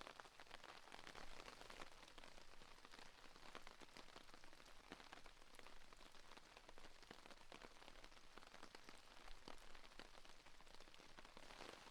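Steady rain on a tarp overhead: a faint, even patter of many small drop hits.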